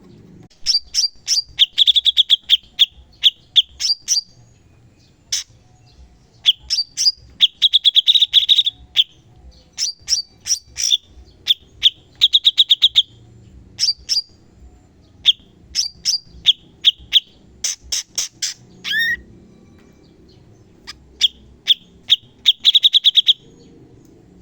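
Cucak cungkok (leafbird) singing in rapid bursts: strings of sharp, high clicking notes running into fast trills, the rapid-fire 'tembakan' phrases used in masteran training recordings. A brief falling note comes just before a short pause about two-thirds of the way through.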